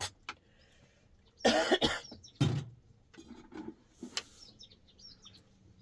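A woman with a cold coughing hard: a short fit of coughs about a second and a half in. Faint bird chirps sound now and then.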